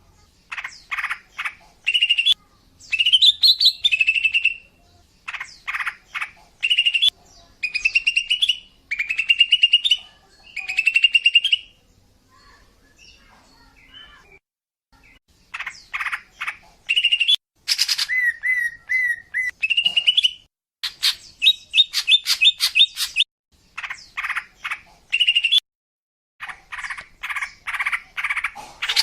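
Female green leafbird (cucak ijo) singing, the kind of song used as a lure to draw in males. It sings in quick runs of chirps and trills, with a pause of a few seconds midway.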